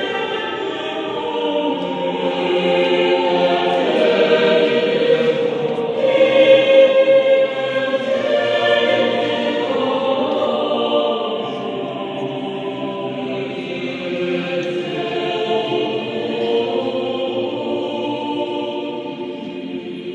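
Mixed adult church choir singing in several voice parts, with long held chords; the singing grows softer over the last few seconds.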